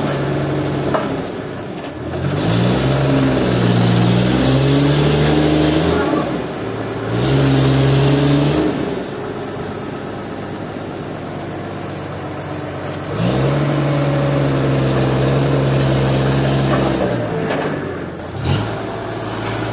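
An engine revving up and holding at speed three times, dropping back between the runs.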